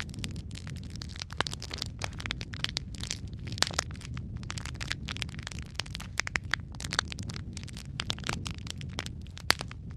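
Wood fire crackling in a fireplace: a steady low rumble of flames with frequent sharp pops and snaps, and one louder pop near the end.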